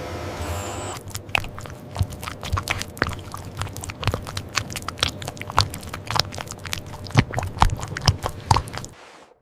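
A dense, irregular run of sharp clicks and crunches, starting about a second in and stopping shortly before the end.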